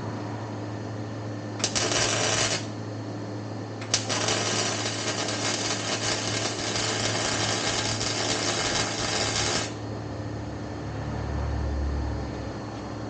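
MIG welder laying two beads: a short burst of crackling, then a longer one of about six seconds, each starting and stopping sharply, over a steady low hum.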